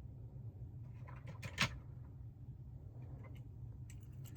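A few light clicks and taps from small toy cars being handled, the sharpest about a second and a half in, over a steady low room hum.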